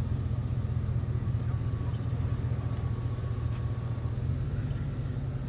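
Truck engine running steadily, a constant low rumble with no revving.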